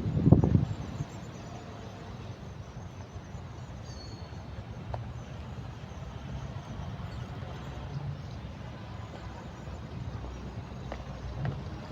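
Steady low rumble of outdoor background noise, with a short loud burst at the very start.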